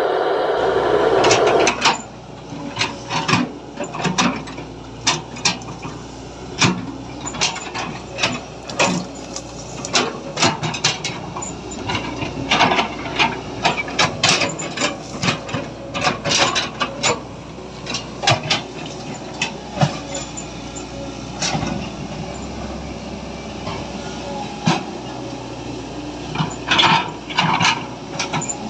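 Toys being handled: many irregular clicks and knocks of plastic pieces, over a steady low hum. A louder, denser whirring sound fills the first two seconds, then cuts off.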